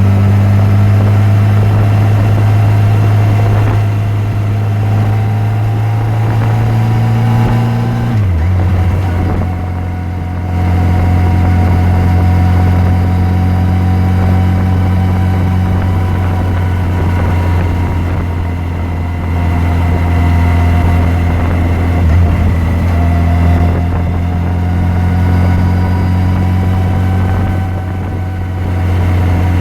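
Yamaha FJR1300's inline-four engine running at a steady, moderate road speed. About eight seconds in, the engine note drops and then settles at a slightly lower pitch.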